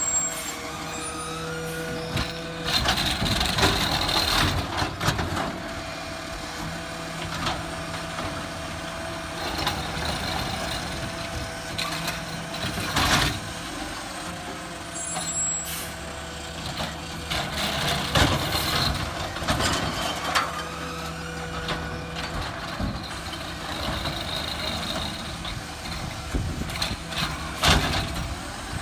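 A garbage truck running at work. Its engine and hydraulics pick up in several cycles during the stretch, and there are a few short, sharp bangs or hisses.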